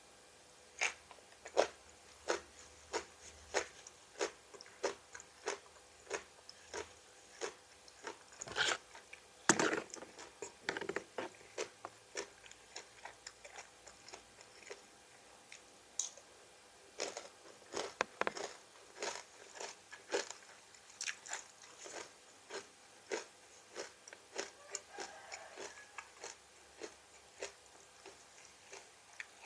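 A person biting and chewing crisp raw vegetables: a steady run of sharp crunches, about one or two a second, with a few louder bites.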